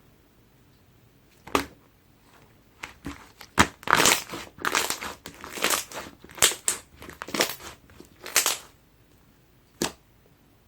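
Clear slime being squeezed and pressed by hand, making a run of short sticky crackles and clicks from about three to eight and a half seconds in. Single sharp clicks come about one and a half seconds in and again near the end.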